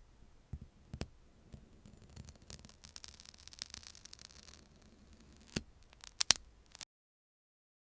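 Close-miked ASMR trigger sounds: soft crackling and rubbing with scattered sharp clicks, a spell of dense fast crackling in the middle, and a quick double click near the end. The sound cuts off abruptly about a second before the end.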